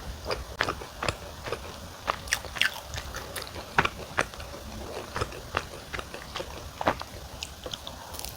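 Close-miked chewing and biting of wood-fired sweet potato pizza: irregular sharp mouth clicks, two or three a second.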